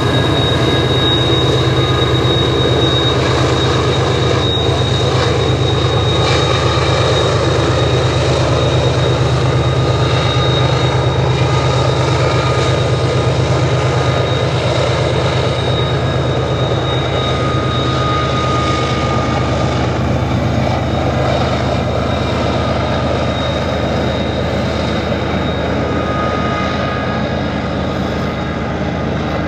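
Loaded coal train rolling round a curve: a steady low diesel-locomotive drone with the wheels squealing thinly and high on the curve, the squeal coming and going.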